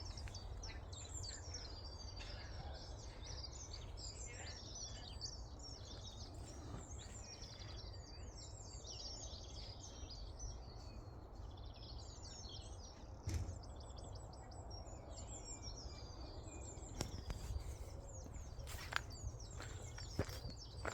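Several small birds singing at once, a dense mix of quick high chirps and warbled phrases, over a steady low rumble. A few sharp knocks sound, one a little past midway and several near the end.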